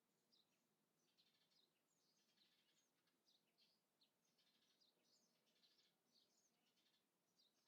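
Faint birdsong: small birds chirping in many quick, short phrases over a faint steady background hiss.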